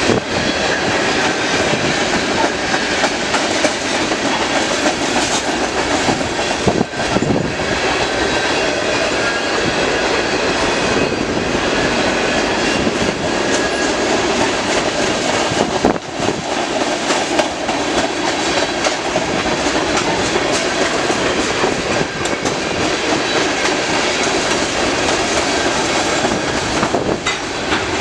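CN mixed freight train's cars rolling steadily past at close range: a loud, continuous rumble of steel wheels on rail with a clickety-clack over the rail joints.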